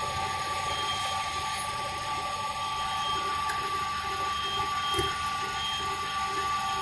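Hand ratchet clicking in an even rhythm over a constant high hum, with a soft knock about five seconds in.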